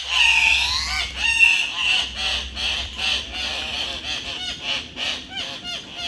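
Male Andean cocks-of-the-rock calling at their lek, a loud chorus of repeated, overlapping squawks, with a long wavering call in the first second. This is the males' courtship display to a female, with sparring among the males.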